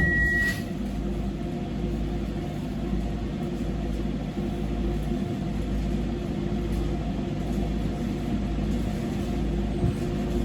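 Docklands Light Railway train heard from the front of the car: a steady low rumble with a constant hum. A single high electronic tone sounds at the start and stops about half a second in.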